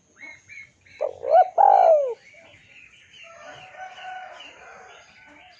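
Birds calling. A loud call of rising and falling glides starts about a second in and lasts about a second. Softer, steadier coos follow, over small birds chirping.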